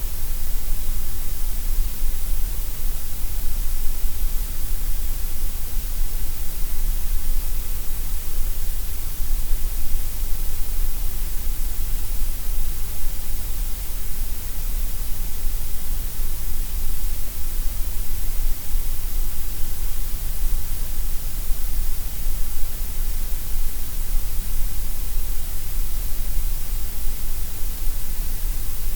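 Gray noise: a steady, unbroken synthetic hiss, strongest in the deep bass and the highs and thinner through the middle.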